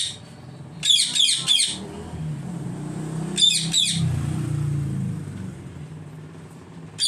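Aviary birds chirping in two short bursts of rapid, shrill calls. A low engine rumble swells and fades under them in the middle.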